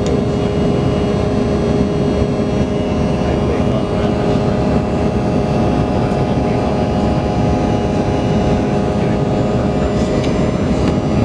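Cabin noise of an Embraer 170 airliner under jet power: its GE CF34 turbofans and the airflow make a steady, loud rush with a steady whine through it, heard from inside the forward cabin.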